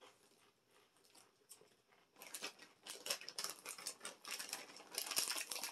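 A crunchy cheddar cheese-puff snack being chewed: a fast, irregular run of faint crackles that starts about two seconds in, after near quiet.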